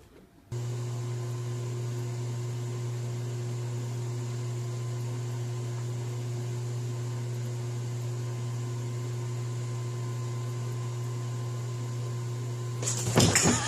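Steady low electrical hum with a faint high whine above it, starting suddenly and running unchanged. Louder, varied sounds break in near the end.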